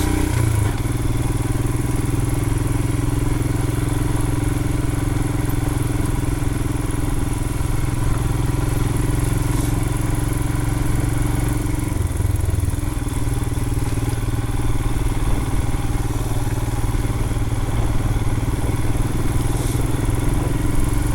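Royal Enfield Himalayan's 411 cc single-cylinder engine running steadily under way, with a brief change in engine note about twelve seconds in.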